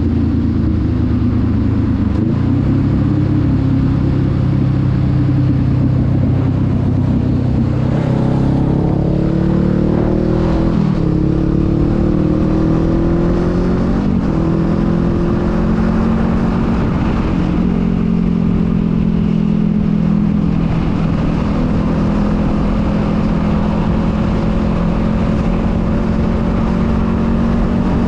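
Honda Rebel 500's parallel-twin engine running under way. Its pitch climbs under throttle, drops back about ten seconds in and again about fourteen seconds in, then holds steady.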